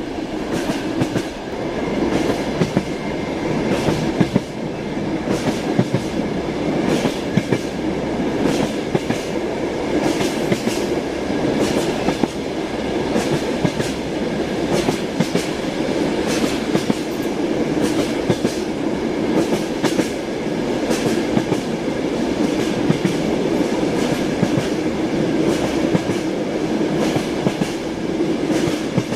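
Train wheels clacking over rail joints, heard from inside a passenger compartment, over the steady rumble of the moving carriage.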